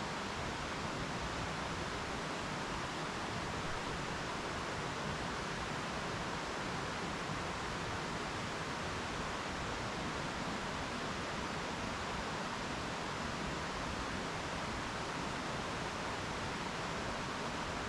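Mountain stream flowing over rocks, a steady, even rushing of water with no breaks.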